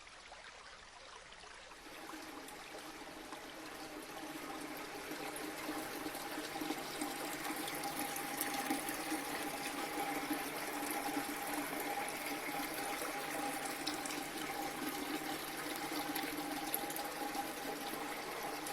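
Indoor decorative water fountain running, with water falling and splashing in a steady stream. It is fainter at first, changes about two seconds in, and then grows louder over the next few seconds.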